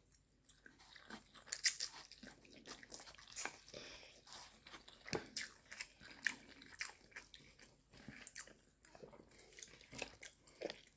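Close-miked chewing of instant noodles and pan-fried dumplings: irregular wet mouth smacks and short clicks, with no talking.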